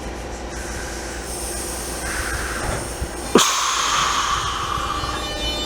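Class 465 Networker electric multiple unit pulling out, its traction equipment giving a steady electric hum. About three and a half seconds in, a sudden loud hiss starts and lasts nearly two seconds.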